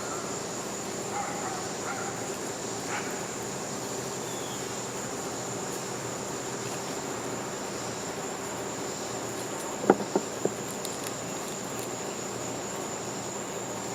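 Crickets chirping in a steady, high-pitched chorus, with three sharp knocks close together about ten seconds in.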